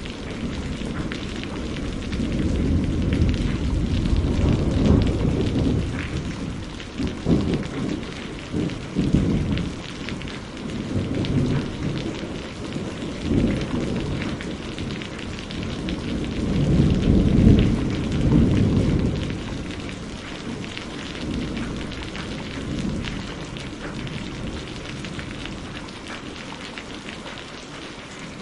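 Thunderstorm: steady rain with a long rolling thunder rumble that builds a couple of seconds in, breaks into several sharp cracks, swells again past the middle and fades out near the end, leaving the rain alone.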